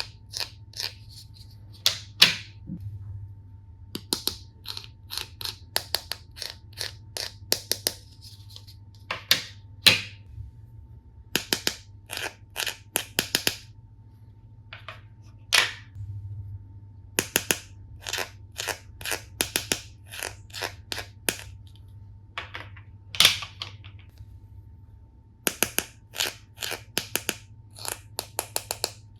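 Plastic toy tool and screw-assembly pieces being handled, giving irregular sharp clicks and taps, sometimes in quick clusters of several, over a steady low hum.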